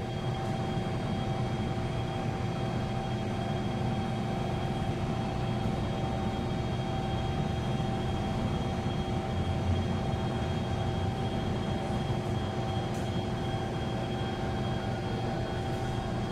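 Steady hum of a stationary MTR M-train standing at the platform with its doors open: the air-conditioning and auxiliary equipment idle, giving a low rumble with several constant tones.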